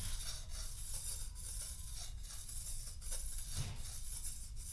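Knife edge being scraped on a lapping plate in short, irregular strokes, deliberately dulling the blade before sharpening.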